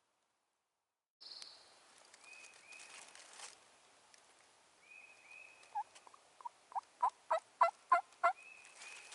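Wild turkey yelping: a series of about nine evenly spaced yelps, roughly three a second, growing louder through the second half. A small bird's short paired chirps sound three times.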